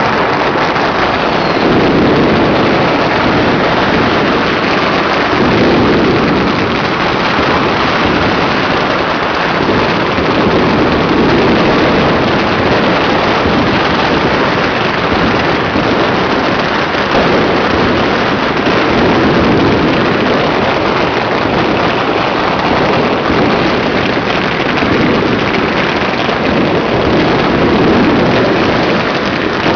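Dense, continuous crackling of many fireworks and firecrackers going off at once, merging into a steady roar that swells and eases every few seconds.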